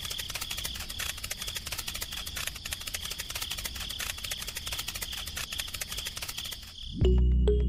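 Insects chirring steadily at a high pitch, with a fast, dense clicking rattle over them. Music comes in near the end.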